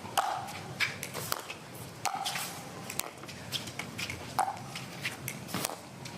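Pickleball rally: paddles strike the plastic ball with hollow pops about every two seconds, and lighter clicks and scuffs of footwork on the hard court fall between them.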